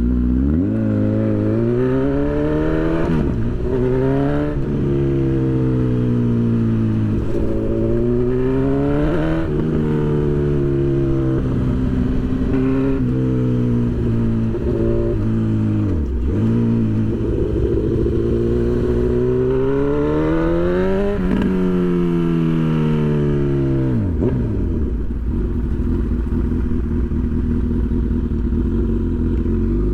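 Honda CB1000 inline-four motorcycle engine pulling through the gears: its note climbs and drops back at each shift several times, then holds lower and steadier near the end, with wind rumble underneath.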